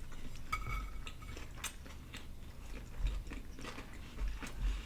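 Close-up chewing of a fried chicken and glazed donut sandwich, with scattered short mouth clicks.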